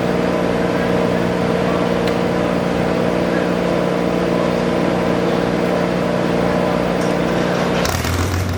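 Garden pulling tractor's engine running at a steady high speed, then dropping suddenly to a low idle near the end.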